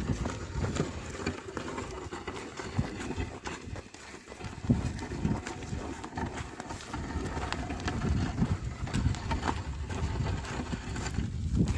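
Oxen plodding as they pull a plough through a field: irregular thuds and scuffs of hooves and feet over a continuous low rumble.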